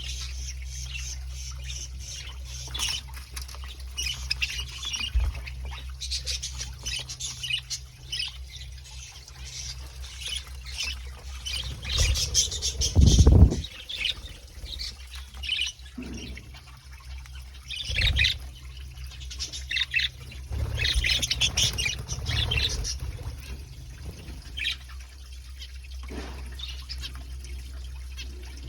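Budgerigars chirping and chattering in many short, high calls throughout, over a steady low hum. About thirteen seconds in there is a louder low rumble.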